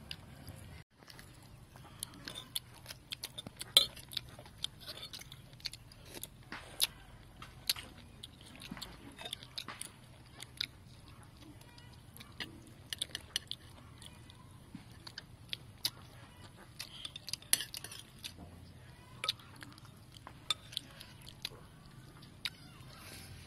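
People eating oxtail soup: close chewing and biting of meat off the bone, with many short, sharp clicks and taps scattered throughout, among them metal spoons touching china bowls.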